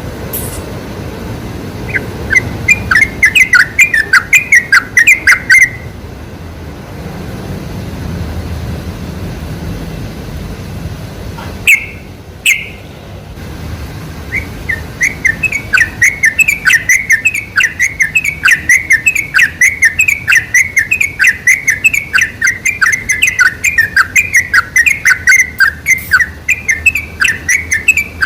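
Yellow-vented bulbul (trucuk) singing in fast runs of short, bubbly notes: a burst of a few seconds, then two sharp single calls, then a long unbroken run from about halfway through. A low rumble sits underneath.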